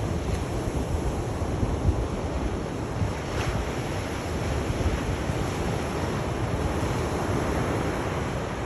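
Sea surf: waves breaking and washing in a continuous rush, with wind rumbling on the microphone.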